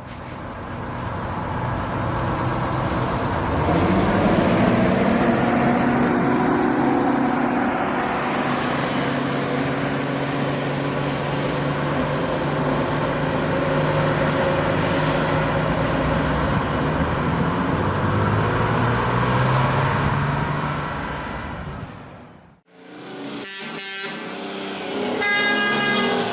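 Detroit Diesel truck engine running, revving up about four seconds in and then holding steady. It fades out, and near the end a different clip begins with a pitched horn-like tone.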